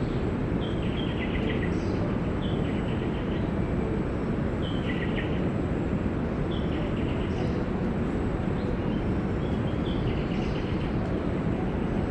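A bird repeats a short call every couple of seconds, a high note falling into a quick stuttering run, over a steady low rumble of outdoor noise.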